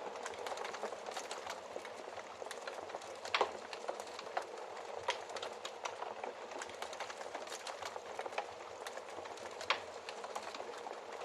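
Wood fire crackling steadily in a fireplace, a dense run of small snaps over a soft hiss, with two louder pops.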